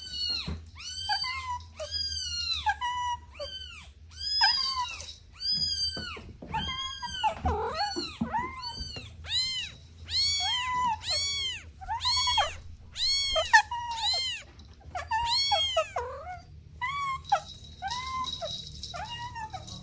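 Kitten meowing over and over in short, high-pitched calls that rise and fall, about one or two a second.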